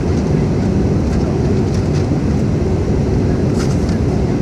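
Airbus A318's jet engines and rushing airflow, a steady dense noise heavy in the low end, as the airliner flies its approach. A few faint light ticks sound over it.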